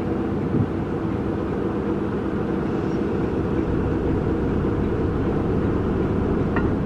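Train on the move: a steady low rumble with a faint engine hum.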